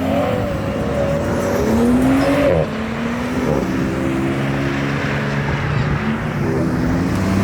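Car engine revving hard as it accelerates away. Its note climbs, dips sharply about two and a half seconds in like a gear change, then pulls on again.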